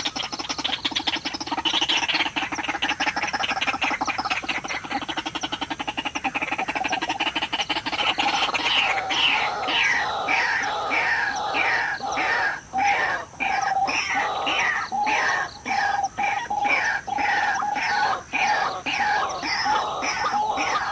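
White-breasted waterhen (ruak-ruak) calling: a fast, rough chattering, then from about eight seconds in a long run of repeated falling notes at about two a second.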